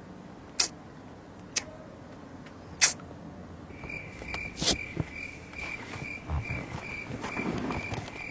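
Three sharp clicks, then a cricket chirping steadily about three times a second, the comic 'awkward silence' cricket sound effect.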